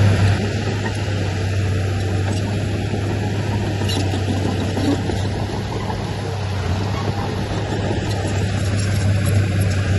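Diesel engine of heavy earthmoving machinery running steadily, a low, even drone.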